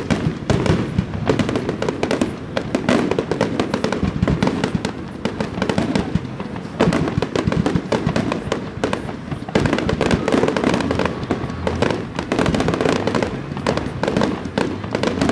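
Fireworks display going off: a dense, unbroken run of bangs and crackles.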